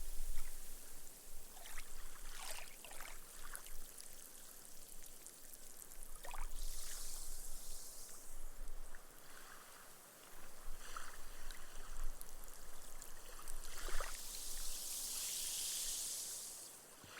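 Small, gentle ripples washing up a sandy beach and soaking into the sand, the foam fizzing with small crackles as the bubbles burst. There is a hissing wash about seven seconds in and a longer one from about fifteen seconds in.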